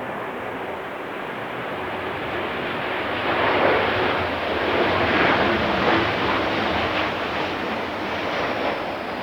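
Boeing 737-800 landing, its CFM56-7B jet engines giving a broad rushing noise that swells to its loudest midway and then eases off, with a faint falling whine near the end.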